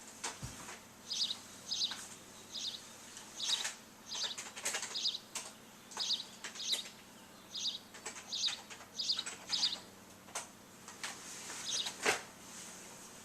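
Small birds chirping, short high chirps repeating about once or twice a second, with a few sharp clicks among them, the loudest near the end.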